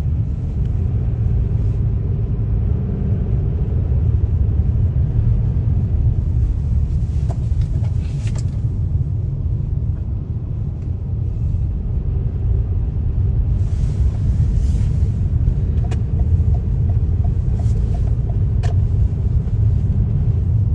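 Car driving on a highway, heard from inside the cabin: a steady low road and tyre rumble, with a few brief hissing swells and a couple of faint clicks.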